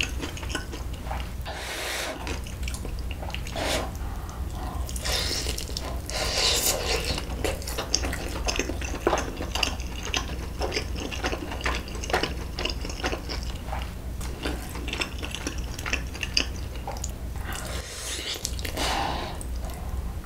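Close-miked wet chewing and lip-smacking of someone eating spicy braised beef short ribs, a continual run of small clicks and squelches, over a steady low hum.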